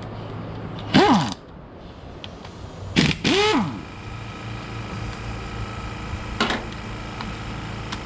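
Short metallic squeaks, each falling quickly in pitch: two loud ones about a second in and around three seconds in, and a faint tick later, as parts of a differential are worked loose over a steady low hum.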